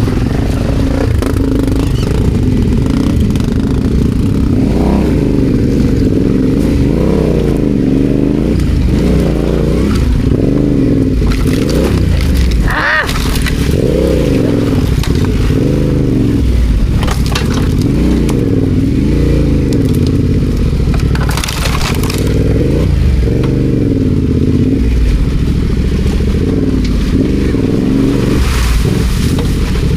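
Adventure motorcycle engine under way off-road, its revs rising and falling over and over as the throttle is worked. A few brief knocks or clatters come in about halfway through and again later on.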